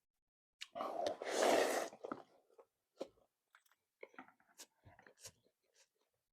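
A person eating thukpa noodle soup close to the microphone: a loud slurp lasting about a second and a half, starting just under a second in, then chewing with small wet clicks and smacks.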